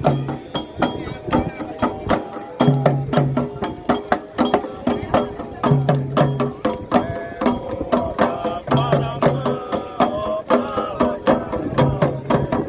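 Candomblé toque: atabaque drums played in a dense, repeating rhythm, with voices singing over them.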